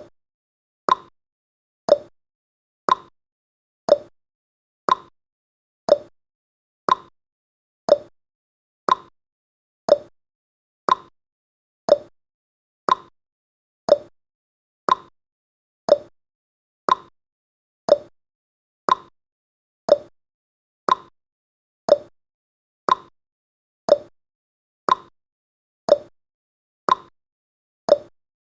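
Countdown timer's ticking sound effect: a short, sharp tick once every second, keeping a steady beat.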